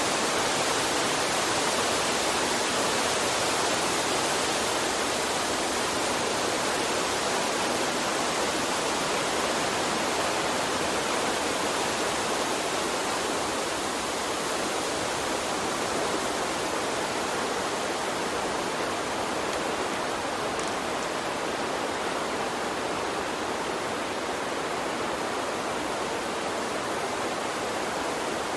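Water stream flowing: a steady, even rush of water with no separate splashes or events, easing off slightly about halfway through.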